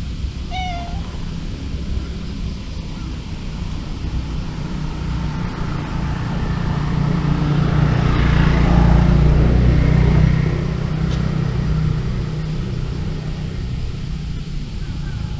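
A cat gives one short meow about half a second in. Under it runs a steady low rumble that swells to a peak around the middle and fades again, like a vehicle passing.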